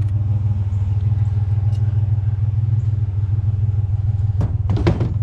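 Pickup truck engine idling steadily, with a fast even low pulse. A few short knocks or clatter near the end.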